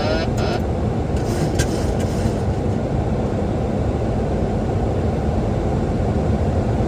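Steady cockpit noise of a Boeing 737-800 on final approach: even airflow and engine rumble, strongest in the low range, with the landing gear down.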